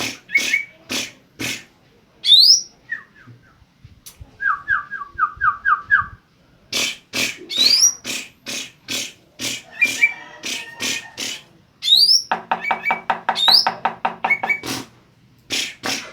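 Cucak ijo mini (green leafbird) singing a varied song of rapid sharp notes, quick rising whistled sweeps and short trills, with a fast run of repeated notes near the end.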